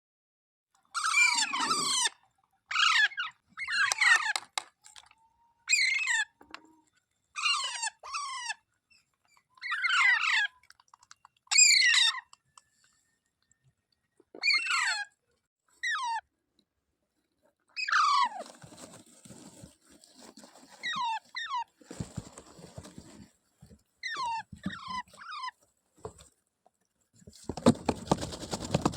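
A parrot calling in a series of short, shrill, warbling squawks, each under a second long with brief pauses between them. From about two-thirds of the way in, softer calls mix with a rustling, scratchy noise, which grows louder near the end.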